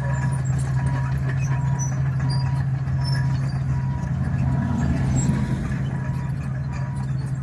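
Komatsu D61 bulldozer's diesel engine running steadily under load, with a beeping alarm repeating about twice a second over it. The engine swells slightly about five seconds in.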